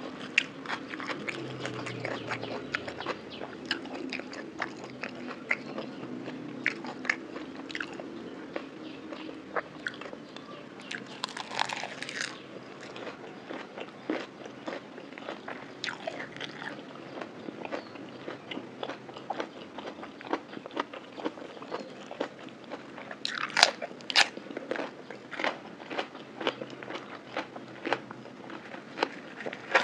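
Close-miked eating of raw shrimp in spicy lime dressing wrapped in seaweed: irregular crunches and wet chewing clicks, with louder crunches about 11 and 24 seconds in.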